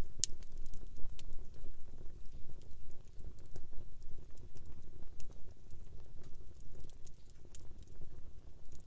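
Wood campfire crackling, with irregular sharp pops and snaps over a steady low rumble; the loudest pop comes just after the start.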